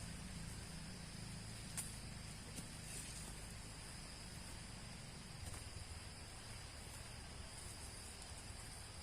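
A steady high-pitched chorus of insects, with a few faint clicks, one sharper just before two seconds in.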